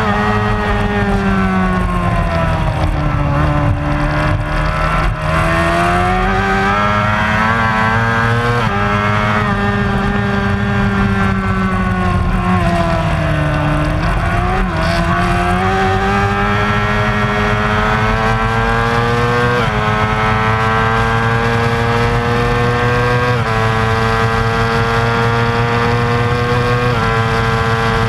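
Racing motorcycle engine running at high revs, its pitch rising and falling continuously through the corners and straights, with several sudden jumps in pitch at gear changes in the second half.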